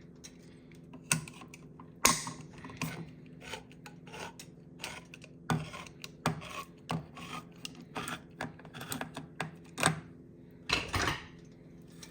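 Irregular metal clicks, taps and scrapes on a can of coconut milk as it is opened by hand and worked at, with a longer scrape near the end.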